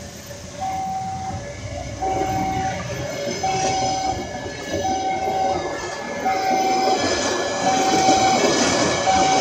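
Passenger train coaches rolling past at a level crossing, wheels clattering on the rails and growing louder toward the end. Over it, the crossing's warning signal repeats a mid-pitched electronic tone about once a second.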